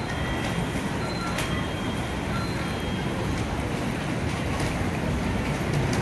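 N700A-series shinkansen arriving at the platform: a low rumble and rush of air that grows steadily louder as the train draws in, loudest near the end.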